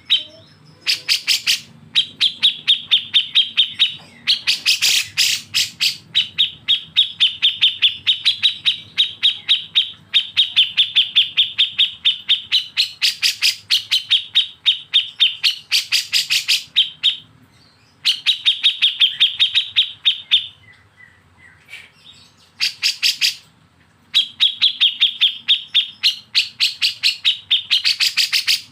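Caged bulbul, kapas tembak or cucak jenggot, singing its 'besetan': long runs of rapid, evenly repeated sharp chips. The runs break off briefly a few times, with the longest pause about two thirds of the way in.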